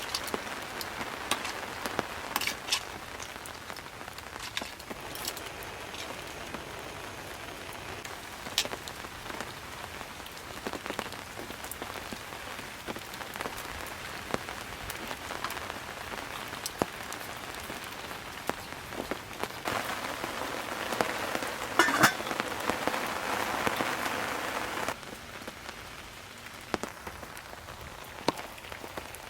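Steady rain falling, with many sharp drop impacts scattered through it. It grows heavier for a few seconds about two-thirds of the way in, then drops off suddenly.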